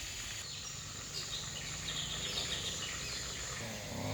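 Outdoor ambience: a steady high insect drone with bird chirps through the middle, over a faint low hum.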